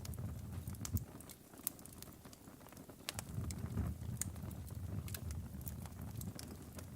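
Burning logs in a fireplace crackling: irregular sharp pops and snaps over a low steady rumble of the flames.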